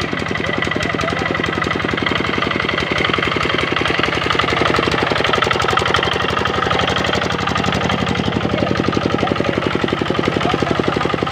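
Kubota RD65 single-cylinder diesel engine on a hand tractor running steadily with a rapid, even knocking beat, a little louder from about three seconds in.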